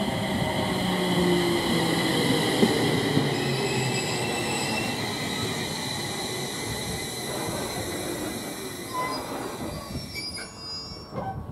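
JR East 701-series electric train arriving and braking, with a steady high-pitched squeal over the rumble of the cars and a lower whine falling in pitch as it slows. The sound dies down near the end as the train comes to a stop.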